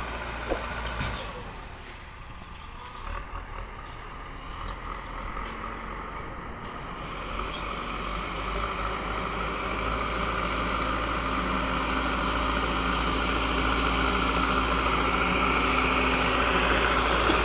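Heavy machine's diesel engine running steadily and growing gradually louder through the clip.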